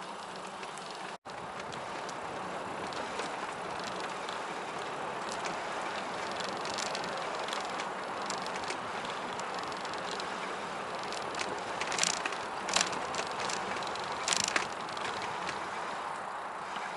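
Bicycle riding along a trail: steady tyre and wind noise, with a few sharp clicks and rattles near the end.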